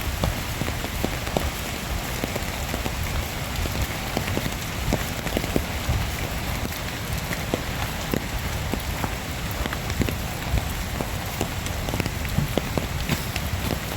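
Heavy rain falling, a steady hiss with many close drops striking in sharp, irregular taps.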